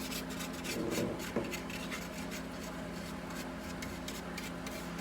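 Paintbrush with cheap plastic bristles dry-brushed lightly across old wood, a quick run of short scratchy strokes as the nearly dry brush grazes and scrapes the surface to give a worn, antiqued finish.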